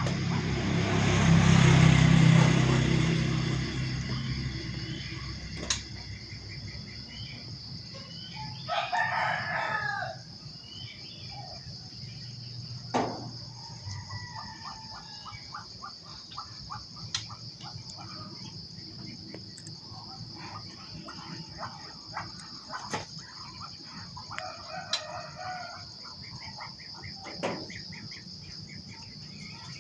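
A rooster crowing twice, about nine seconds in and again near the end, with small birds chirping and a steady high-pitched drone behind. A loud rushing noise fills the first few seconds.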